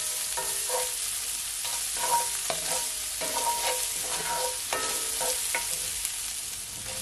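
Sliced onions and minced garlic sizzling in hot oil in a cast-iron skillet, with a wooden spoon stirring and scraping them across the pan in repeated short strokes.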